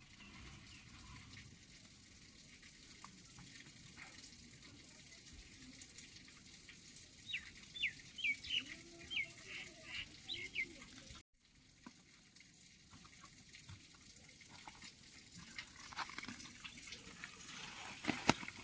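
Steady faint water noise, with a quick run of about six short chirping calls a little past halfway through.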